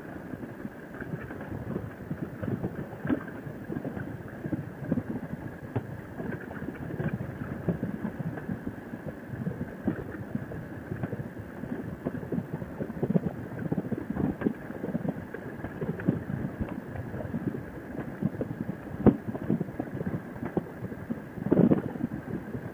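Harley-Davidson Sportster running at road speed, with wind noise buffeting the microphone in uneven gusts.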